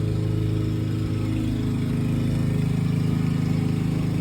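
A small engine running steadily in the background, an even droning hum that does not change.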